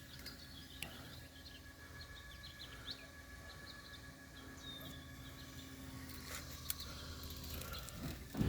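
Birds chirping in short scattered calls over a faint steady low hum, with a few small clicks.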